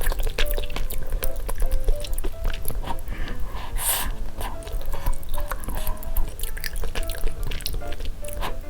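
Close-miked eating sounds: chewing and many sharp wet mouth clicks, with a louder wet burst about four seconds in. Light background music with a simple melody plays under them.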